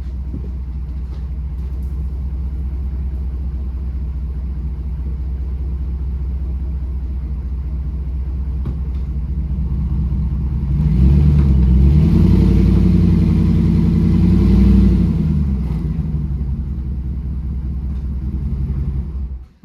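Warmed-up 5.7-litre Hemi V8 of a Dodge Ram 1500 pickup running at a steady idle. About eleven seconds in it revs up, holds for several seconds as the truck is driven up onto ramps, then settles back. The sound cuts off suddenly just before the end.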